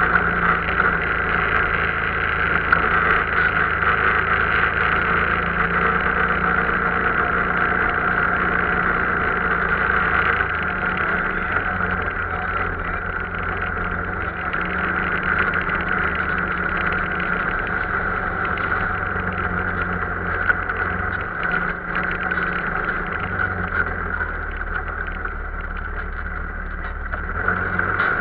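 Arctic Cat vehicle's engine running steadily while under way, its note shifting a little in speed, a bit quieter for a few seconds near the end before picking up again.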